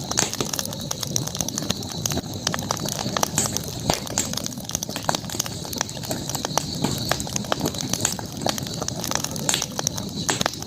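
Campfire burning with irregular crackles and pops of burning wood, over a steady high hiss.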